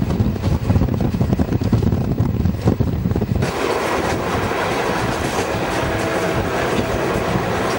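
Passenger train running, heard from inside the coach: a steady rumble with rapid clatter of wheels over the rails, which about three and a half seconds in gives way to a smoother, hissier rush.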